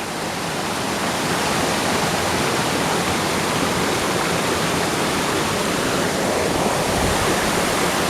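Steady rush of flowing water, as from a creek spilling over rocks, growing a little louder over the first second or so.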